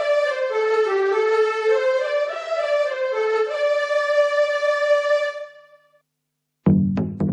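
Yamaha PSR-SX arranger keyboard playing a short melody on a sampled sustained solo instrument voice, one note at a time, that stops about five and a half seconds in. After a brief gap, low drum-like percussion hits start near the end.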